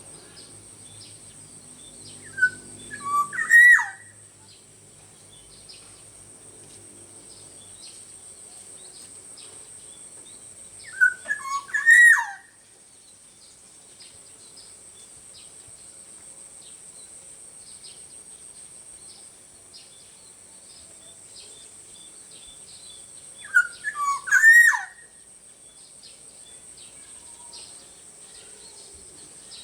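Black-naped oriole (kepodang) singing: three short, loud, fluting whistled phrases about ten seconds apart, each a few gliding notes.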